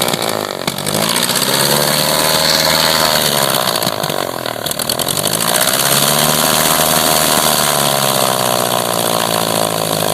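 The Cessna 150's four-cylinder air-cooled Continental O-200 engine and propeller running, revved up and back down twice as the throttle is worked. The crew says the idle is not set right.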